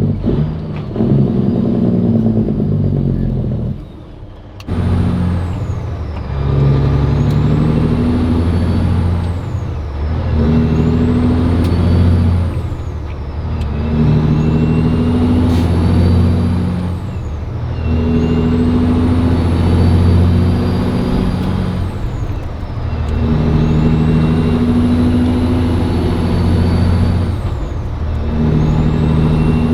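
Cat 3406E diesel truck engine, breathing through aeroturbine mufflers, pulling up through the gears. The engine note cuts out briefly at each upshift, with the shifts spreading further apart as speed builds. A high whistle falls at each shift and climbs again as the engine pulls.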